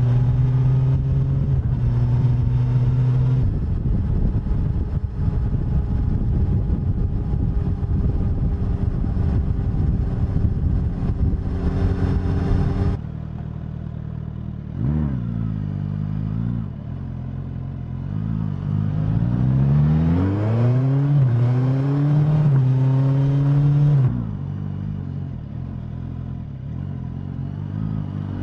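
Suzuki GSX-S1000 inline-four engine and exhaust heard while riding. It runs at a steady pitch, then a long loud rushing stretch until about halfway. After that the pitch drops, swoops up and down with throttle changes, and rises through the revs as the bike accelerates. Near the end it settles to a quieter steady pitch.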